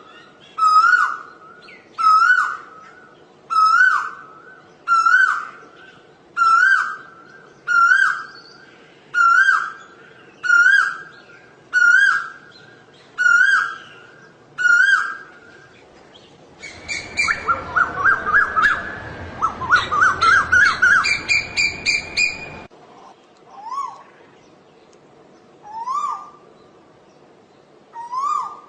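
Asian koel calling: a series of about eleven loud rising whistled notes, one every second and a half. Then comes a rapid run of short, shrill notes for several seconds, and near the end three fainter rising calls begin a new series.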